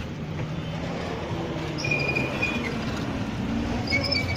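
Roadside traffic noise with engines running, and a high-pitched squeal twice: once about two seconds in and again near the end.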